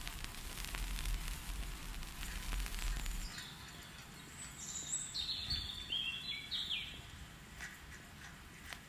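Birdsong over a faint background hiss: a low hum stops about three seconds in, then a bird sings a quick run of short notes stepping down in pitch, followed by a couple of faint clicks near the end.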